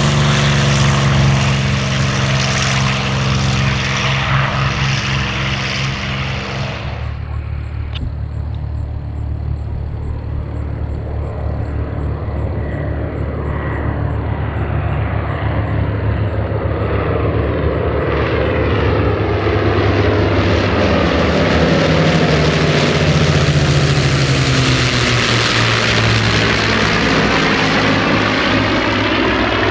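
Propeller-driven WWII fighter's liquid-cooled V-12 piston engine running in flight. About seven seconds in the sound abruptly turns quieter and duller. From about eighteen seconds it grows louder as the plane comes by on a pass, then drops in pitch as it goes away.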